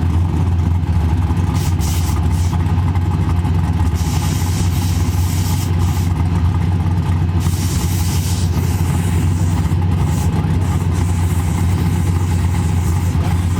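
A vehicle engine idling steadily at an even pitch, with no revving, and a hiss that comes and goes over it.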